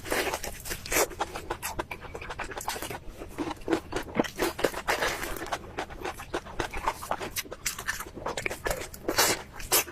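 Chewing and biting through something crunchy: a fast, irregular run of sharp crunches and clicks, with the loudest bites about a second in and near the end.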